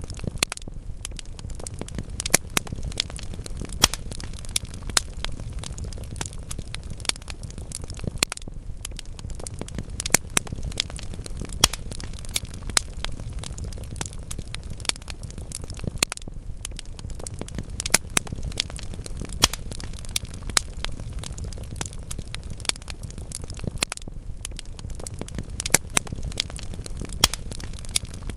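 Wood fire burning in a fireplace: a low steady rumble of flames with frequent irregular crackles and sharp pops from the burning logs.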